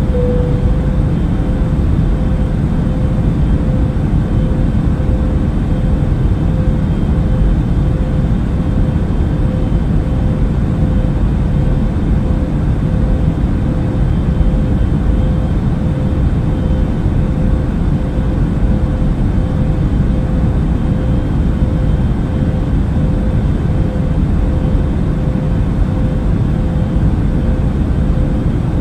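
Steady airplane cabin noise in flight: an even, deep rush of engines and airflow with a faint steady hum above it.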